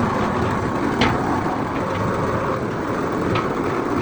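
Steady workshop machinery noise with two sharp knocks, one about a second in and one near the end.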